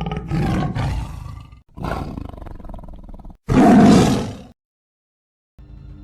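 Big-cat roars, three in a row, the third the loudest, then silence.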